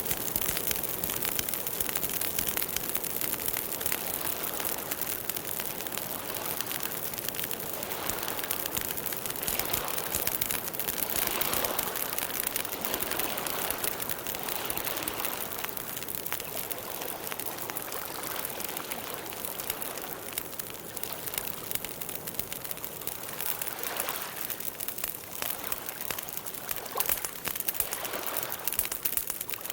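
Campfire burning with steady, dense crackling of wood, swelling into a few louder stretches of hissing and crackling.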